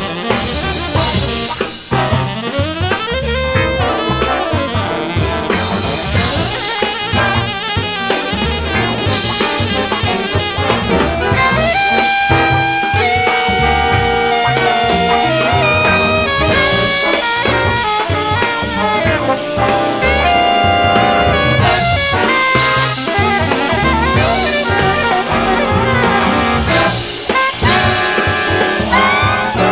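Big-band jazz: brass and saxophone playing held and moving lines over a drum kit.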